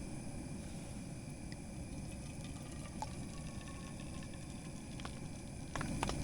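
Camp stove burner running with a steady low rush under a pan of cooking breakfast, with a few light clicks of utensils near the end.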